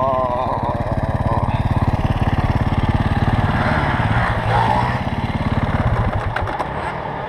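Motorcycle engine running with a rapid, even chugging that eases off slightly near the end.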